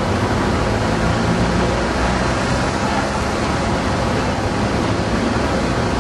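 Engines running steadily: a dense, even mechanical rumble with a low hum underneath and no change throughout.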